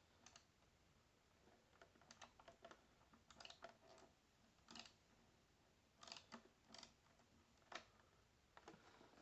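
Faint, irregular clicking of a ratchet screwdriver turning back and forth on a small Phillips screw in a plastic toy case. The screw won't turn; the repairer believes it is stripped.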